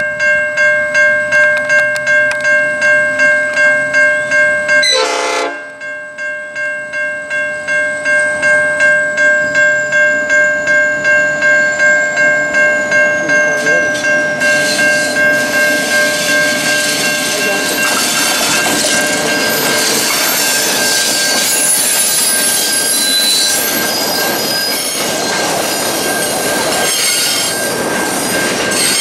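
Level-crossing bell ringing steadily about twice a second as a diesel-hauled container train approaches. From about halfway through, the locomotive and its container wagons pass with growing wheel-on-rail noise and clatter while the bell keeps ringing.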